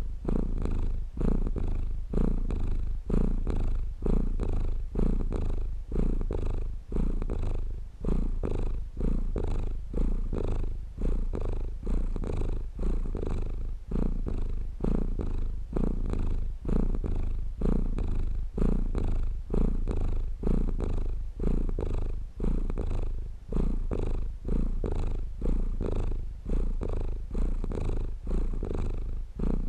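Domestic cat purring continuously and close up, in a steady pulse about once a second.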